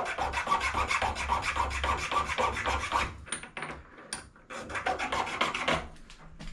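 Rapid back-and-forth scraping of metal on a brass scrap fitting, several strokes a second, in two runs with a short break and a couple of knocks between them.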